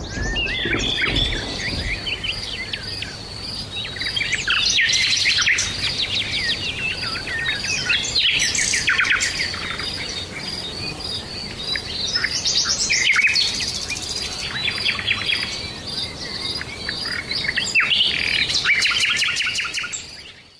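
Several songbirds singing together, with overlapping chirps, whistled notes and fast trills, over an evenly repeated high note. It fades out near the end.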